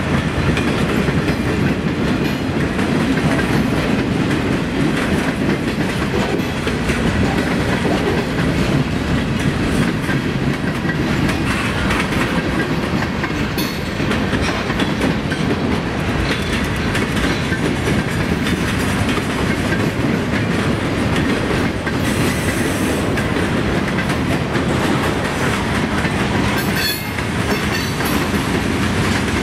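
Freight train of boxcars, a centerbeam flatcar and covered hoppers rolling past: a steady rumble of steel wheels on rail, with wheel clicks over the rail joints.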